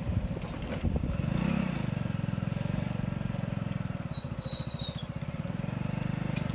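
A motor running steadily with a low, even hum, and a brief high chirp about four seconds in.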